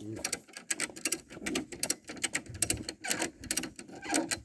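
Ratchet tie-down strap being cranked to tighten a load, giving a fast, irregular run of sharp clicks, about five a second.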